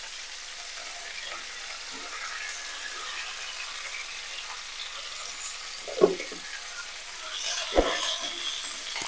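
Coriander leaves frying in hot oil in a frying pan, a steady sizzle. Two sharp knocks against the pan, about six and eight seconds in, while the greens are stirred with a wooden spatula.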